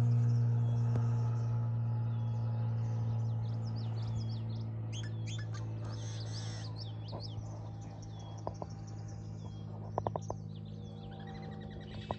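Many small birds chirping and calling, short overlapping calls that are busiest in the middle, over a steady low hum that is loudest at the start and slowly fades. Near the end come a few short runs of quick clicks.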